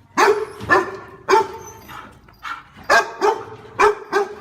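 A dog barking repeatedly: about eight sharp, loud barks at uneven intervals.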